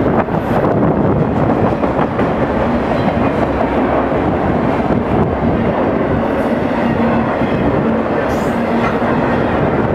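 Autorack freight cars rolling past close by: a steady rumble of steel wheels on the rails. A faint steady hum comes in about three seconds in and fades near the end.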